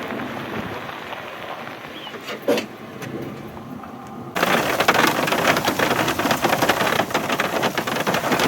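Heavy rain, a dense, steady clatter of drops close by, cutting in abruptly about four seconds in after a quieter stretch of even noise with a single sharp knock.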